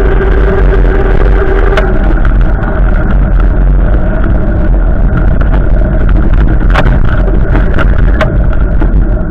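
Strong wind gusts buffeting the microphone: a loud, continuous low rumble, with a few sharp clicks.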